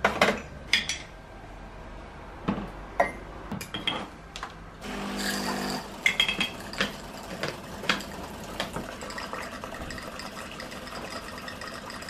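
Kitchen handling sounds: dishes and utensils clinking and knocking at irregular intervals, with a short steady hum lasting about a second about five seconds in.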